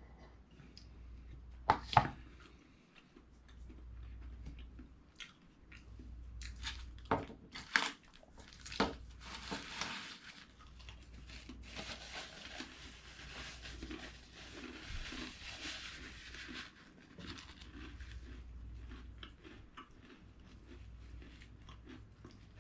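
Close-up eating sounds: chewing and crunching crackers, with a few sharp knocks about two seconds in and again a few seconds later. In the middle, several seconds of paper rustling as a paper napkin is handled.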